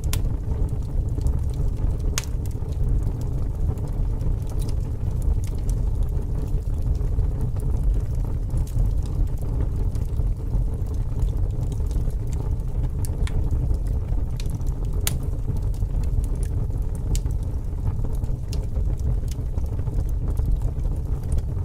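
Fire crackling: a steady low rumble of flames with sharp pops and crackles at irregular intervals.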